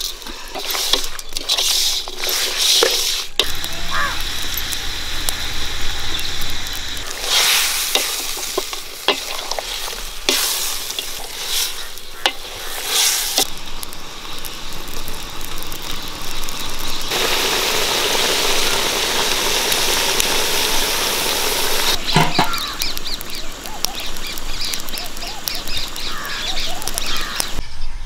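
For the first few seconds a hand mixes raw country chicken pieces with rock salt in an aluminium pan, with sharp clicks. Then a pot of chicken curry sizzles over a wood fire, with scattered sharp crackles and a louder, even stretch of sizzling a little past halfway.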